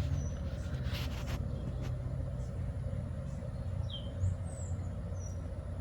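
Outdoor backyard ambience: a steady low rumble like distant traffic, with a few short high bird chirps about four to five seconds in.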